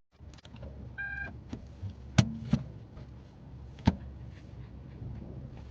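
Inside a parked or idling car: a steady low cabin hum, a short electronic beep about a second in, then a few sharp clicks or knocks.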